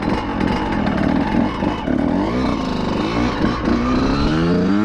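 Two-stroke dirt bike engine pulling hard under acceleration, its pitch climbing steadily over the last couple of seconds.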